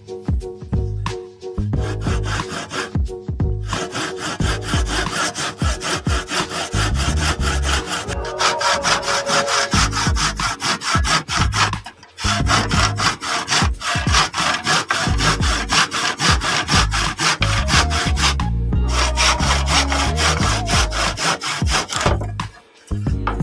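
Hand saw cutting through wood in quick, even back-and-forth strokes, stopping briefly twice, once about halfway through and again near the end.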